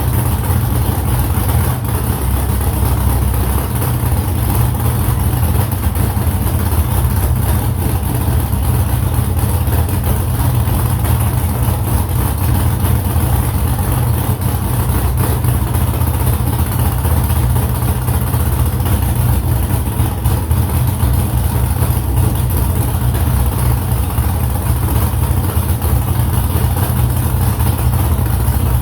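Freshly built car engine running steadily with a constant deep drone, with no change in speed.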